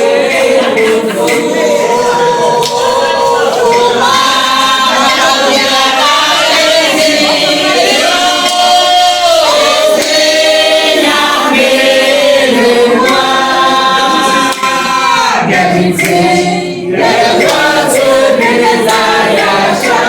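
A group of voices singing together in unison, with long held notes and a short break between phrases about three-quarters of the way through.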